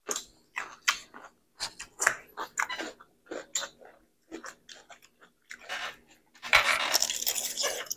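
Raw cucumber being bitten and chewed close to a clip-on microphone: a run of short, crisp crunches at irregular intervals, with a louder, longer noisy stretch near the end.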